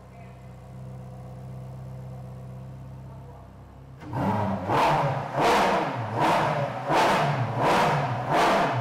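Ferrari F430 V8, stroked to 4.6 litres, idling steadily. About halfway through it is revved hard six times in quick succession, a sharp blip roughly every 0.7 seconds.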